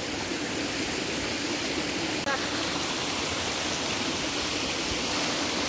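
Steady rushing noise of water, a continuous even hiss with no changes.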